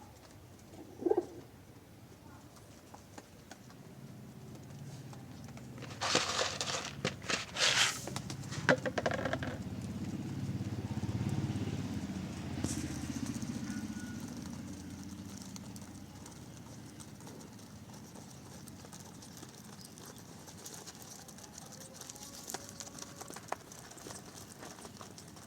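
Pigeons cooing, with a few loud rustling bursts several seconds in.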